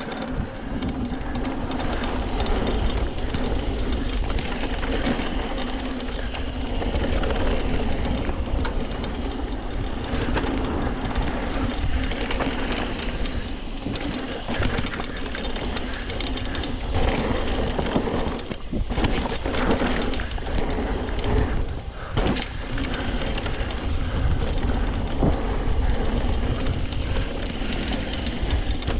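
Mountain bike descending a rough downhill trail: a continuous rumble and rattle of the tyres over dirt and rocks, with the bike's chain and frame clattering.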